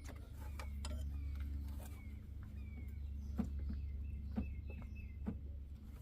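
Light metal clicks as the engine fan is wiggled loose on the water pump, with three sharper clicks in the second half. A bird chirps over and over in short falling notes, and a steady low hum runs underneath.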